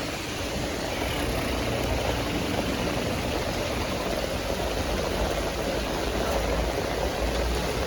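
Heavy rain falling steadily with running water, and a low engine-like hum underneath.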